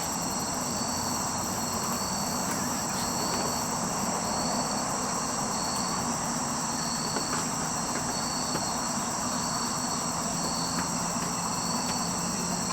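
A steady outdoor chorus of crickets chirping without pause, with a faint low hum beneath.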